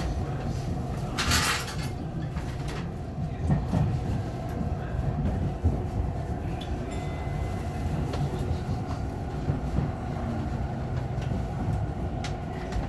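Steady running noise of a subway train: a low rumble with a brief hiss about a second in and a few faint clicks.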